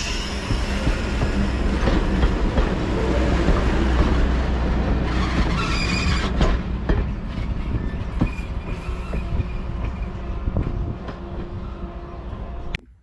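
Steam-hauled passenger train rolling past, a steady rumble with wheels clicking over the rail joints. It fades gradually and cuts off suddenly near the end.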